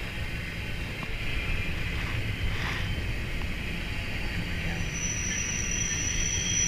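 Freight train running past with a steady low rumble; a thin high-pitched wheel squeal starts about five seconds in and holds.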